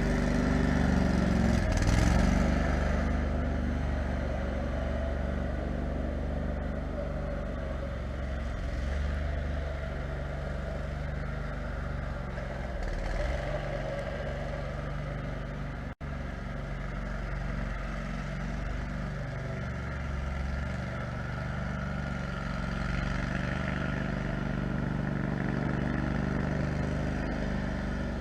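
Kohler 18 HP Command engine of a 6x4 off-road lawn mower running steadily, louder and higher for a moment about two seconds in, with a sudden brief cut-out about halfway through.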